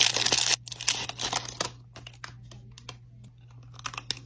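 Plastic wrapper of an ice cream bar crinkling as it is unwrapped, loudest in the first second or so, then fading to faint scattered rustles and clicks.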